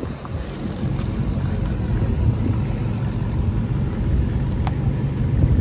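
Car engine idling with a steady low rumble, growing slightly louder, with wind buffeting the microphone.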